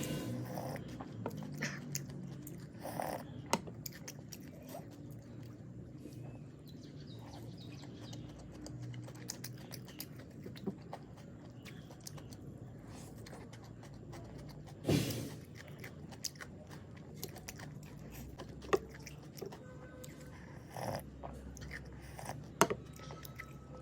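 Close-miked chewing of steamed chicken momos: soft, wet mouth sounds with small scattered clicks, broken by a few louder sharp knocks, the biggest about halfway through.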